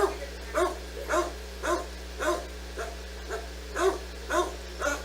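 A dog barking steadily in a regular series, about two barks a second, with a constant low electrical hum underneath.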